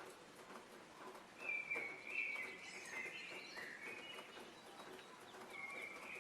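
Songbirds singing in short phrases, a run of calls about a second and a half in and another near the end, over a steady outdoor hiss.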